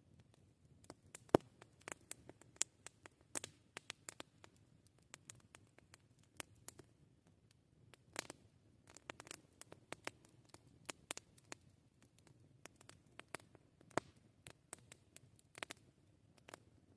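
Campfire burning quietly with irregular crackles and sharp pops of burning wood, the loudest pop about a second in.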